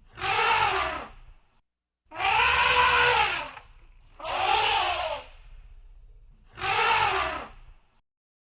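Elephant trumpeting: four loud calls about two seconds apart, each rising and then falling in pitch.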